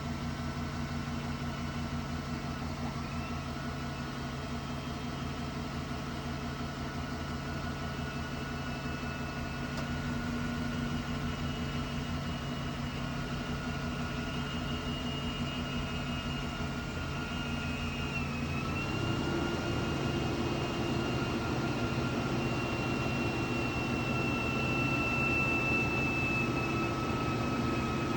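The powered driver-door mechanism of a 2012 Silverado mobility truck running: a steady, thin motor whine over a low mechanical hum. About 19 s in, the whine dips briefly and the hum deepens with a new tone, as the mechanism changes stage.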